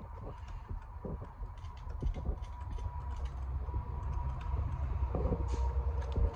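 Light, scattered metallic clicking and ticking as a spark plug is threaded down by hand into the engine, over a low steady rumble.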